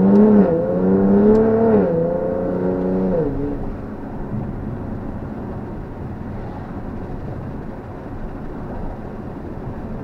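Nissan 370Z's 3.7-litre V6 with a custom exhaust, heard from inside the cabin, accelerating hard: its pitch climbs and drops back twice as it shifts up. After about three seconds the driver lifts off and the engine fades into steady cruising with tyre and road noise.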